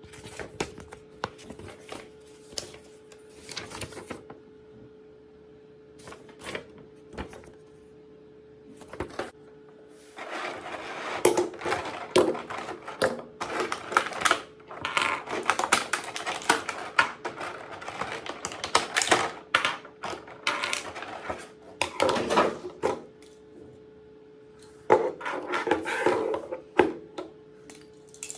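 Small plastic toy-aircraft parts being handled and fitted together: scattered clicks and clatter, coming in dense clusters between about ten and twenty-three seconds in and again near the end. A faint steady hum runs underneath.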